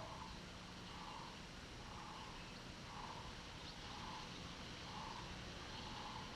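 A bird's soft notes repeated about once a second, faint over a quiet forest background.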